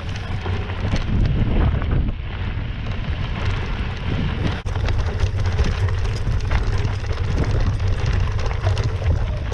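Mountain bike riding over a loose, rocky trail: tyres crunching and the bike rattling, with constant wind rumble on the microphone.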